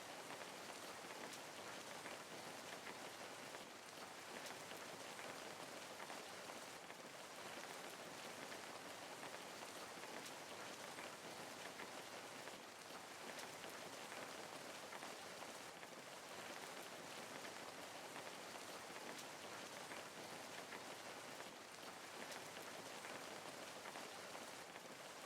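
Steady rain falling, an even patter of raindrops on a surface with faint scattered drips.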